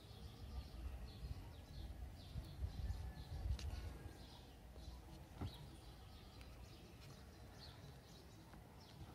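Small birds chirping over and over in the background, with a low rumble over the first few seconds and a couple of sharp clicks about three and a half and five and a half seconds in.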